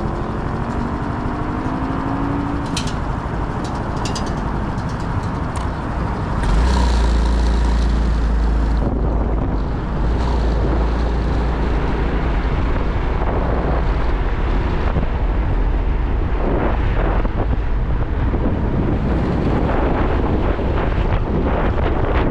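Motorcycle riding on the road: the engine is running under heavy wind noise on the microphone. The wind rumble gets much louder about six and a half seconds in, as the bike picks up speed.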